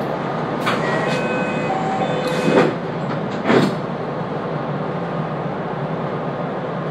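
Interior running noise of a JR West 227 series electric train: a steady rumble, with a few brief whining tones at different pitches in the first half. Two short loud knocks from the wheels and track come about two and a half and three and a half seconds in.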